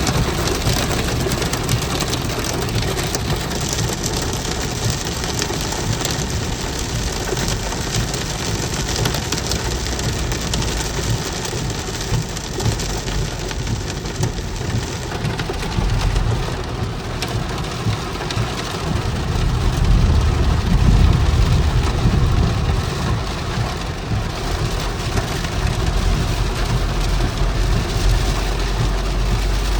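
Heavy rain falling steadily, with the low rumble of a car driving on wet road underneath; the rumble swells louder about two-thirds of the way through.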